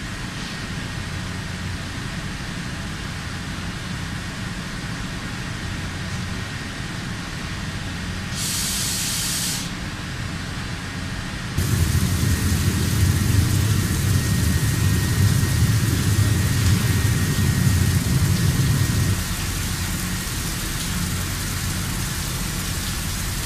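Heavy industrial machinery running with a steady low rumble, a brief sharp hiss about eight seconds in, and a louder, heavier spell of rumbling from about twelve to nineteen seconds.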